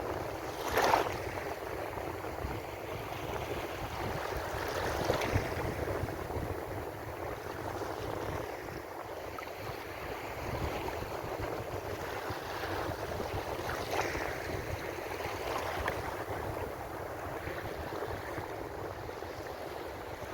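Ocean surf: waves breaking and washing continuously, with a louder wave crashing about a second in and further swells around five and fourteen seconds in.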